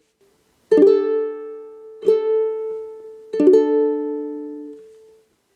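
Strummed chords on an acoustic string instrument: three strums, the last one struck twice quickly, each left to ring and fade away.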